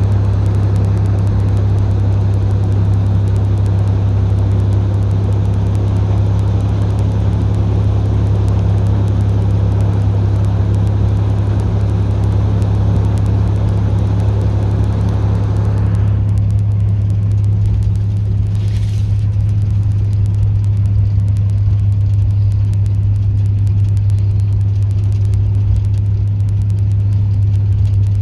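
The TU6A narrow-gauge diesel locomotive's YaMZ-236 V6 diesel engine running under load as the locomotive climbs a grade, a steady low drone. The rougher, higher noise over the drone falls away about sixteen seconds in.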